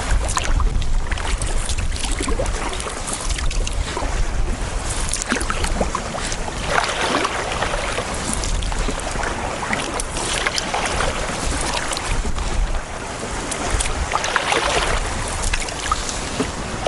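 Wind buffeting the microphone with a low rumble, over water splashing and sloshing against a canoe in choppy, wind-driven waves. Louder splashes swell up every few seconds.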